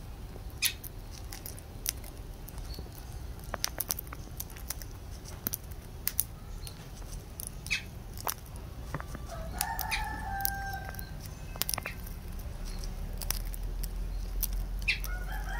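Lovebirds: scattered sharp clicks and taps with a few short chirps, and a longer call about ten seconds in and again near the end.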